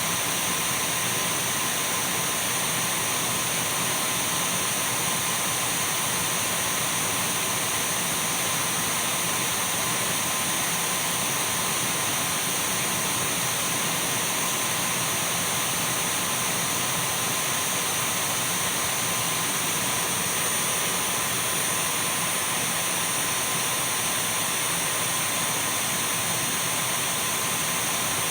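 Dyson V12 cordless stick vacuum running at a constant speed: an even rush of air with a thin, steady high whine from the motor on top.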